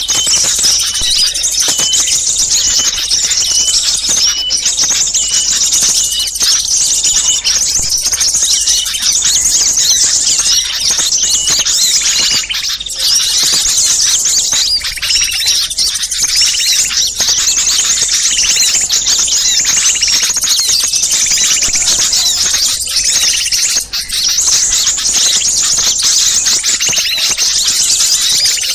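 Bird-lure recording of many small songbirds chirping and trilling at once in a dense, unbroken racket of high calls. In the first few seconds one short note repeats several times a second under the rest.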